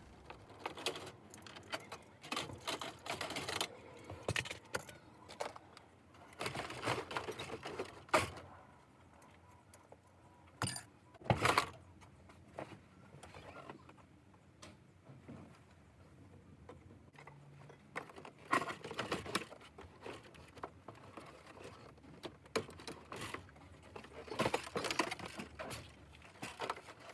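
Hand work on a car's dashboard: irregular clicks, rattles and scraping of tools and plastic trim parts being worked loose, with two sharp knocks about eight and eleven seconds in.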